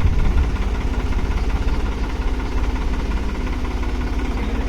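An engine idling steadily with a low, even chugging.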